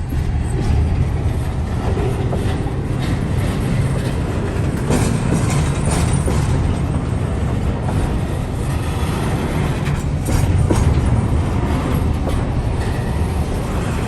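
Freight train rolling by with a steady heavy rumble, its steel wheels clicking irregularly over rail joints.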